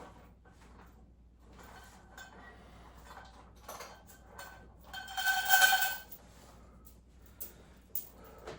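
Metal home-gym equipment knocking and clinking, with one louder ringing metal clank about five seconds in that sounds for about a second before fading.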